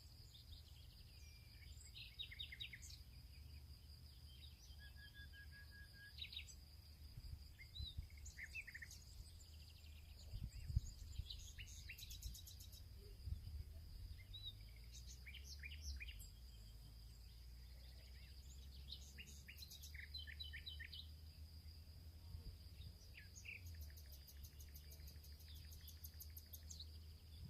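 Small birds chirping and calling in an open field, many short scattered notes, over a steady high-pitched hum and a low rumble. A single thump about eleven seconds in.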